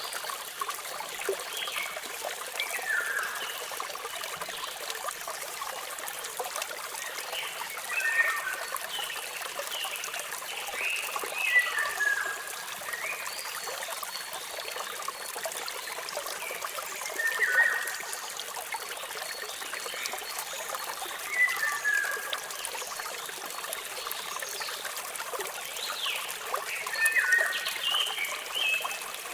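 Steady hiss of running water from a waterfall, with birds chirping every few seconds in short, downward-sliding calls that stand out above the water.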